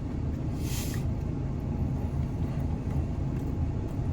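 Steady low rumble of a vehicle engine running, heard from inside a truck cab, with a brief hiss about a second in.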